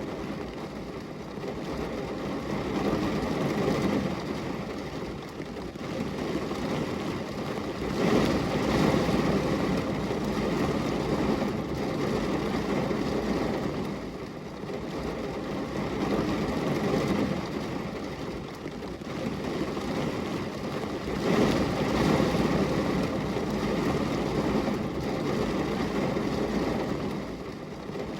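Steady rain falling on a window, an even rushing wash that swells louder twice, about a third of the way in and again about three-quarters through.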